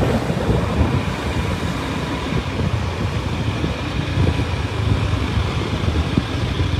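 Rail vehicle running along the track in a steady low rumble, with a faint steady whine above it and a few light knocks from the wheels.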